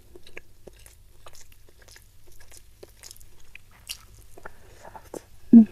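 Close-miked eating sounds of a mouthful of salted fish and rice: soft wet chewing with many small mouth clicks and a little crunch. About five and a half seconds in comes one short, louder voiced sound from the eater.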